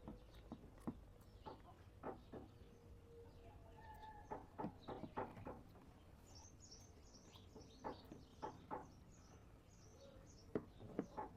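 Faint bird chirps and twittering in the background, with scattered soft clicks and taps.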